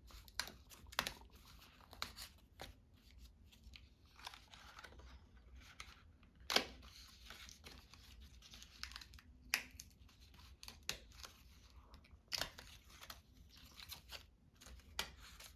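Paper being handled and torn: irregular rustles and rips mixed with small sharp taps and clicks, with a louder snap about six seconds in and another near the end.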